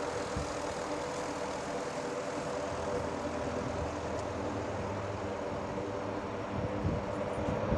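Aircraft engines droning steadily overhead, a sustained even engine tone over a low rumble.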